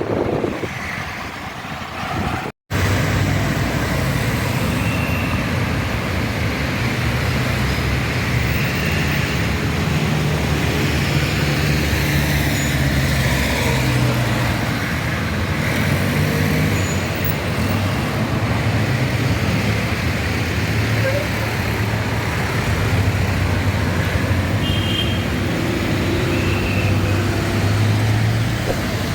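Steady road traffic noise with a low engine hum running under it, after a brief cut to silence a couple of seconds in.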